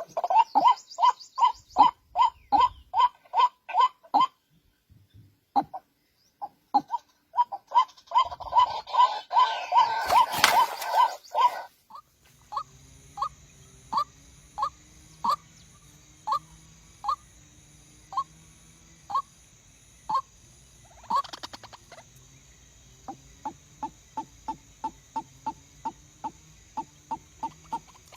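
A bird giving short calls over and over, about two or three a second at first, with a louder rush of noise around ten seconds in. From about twelve seconds a steady high hiss sits behind the calls, which slow to about one a second and then quicken again near the end.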